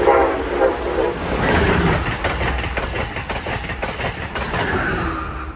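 Amtrak electric passenger train passing close at speed: a loud rush of wheels and air, with rapid wheel clicks over the rail joints as the cars go by.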